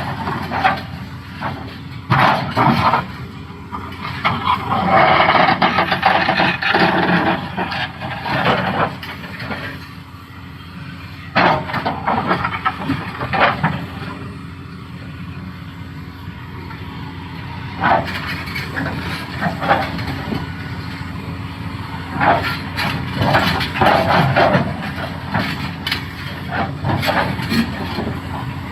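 Doosan DX390 excavator's diesel engine running steadily, with repeated sharp knocks and clatter of rock against the steel bucket. A longer spell of dense clattering comes about four to nine seconds in.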